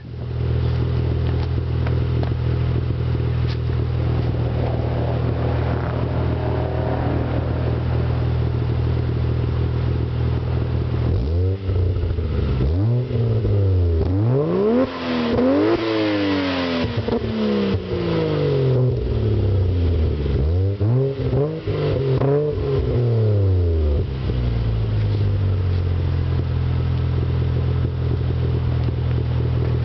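Toyota Soarer twin-turbo engine through a single 4-inch exhaust, idling steadily. About a third of the way in it is revved repeatedly in quick blips, rising and falling in pitch, then it settles back to idle.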